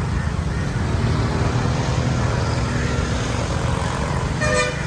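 Steady street traffic, vehicle engines running close by with a low drone. A short, high beep near the end.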